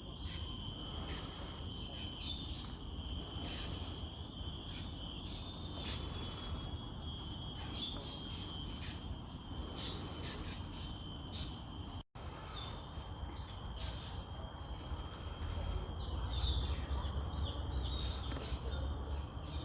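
Steady, high-pitched chorus of several insects calling without a break, with a few bird chirps over it and a low rumble of wind or handling noise. The sound drops out for an instant about two-thirds of the way through.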